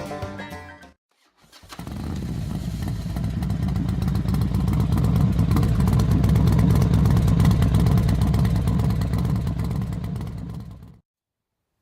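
Motorcycle engine running with a dense low rumble, growing louder to a peak midway and then easing off before it cuts off suddenly near the end.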